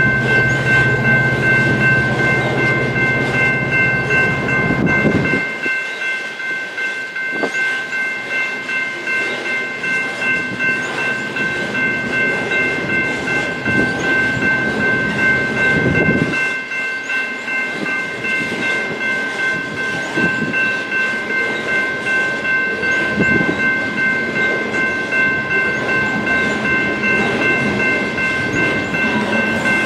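BNSF train rolling past, its cars clattering over the rail joints, with a steady high-pitched ringing tone held throughout.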